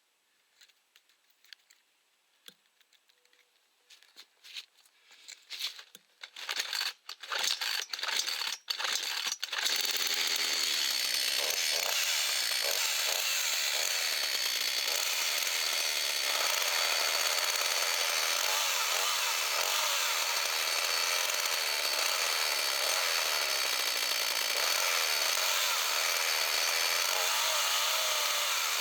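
Gardeo two-stroke petrol chainsaw, just repaired, running steadily. It starts about ten seconds in, after a few irregular clicks and knocks.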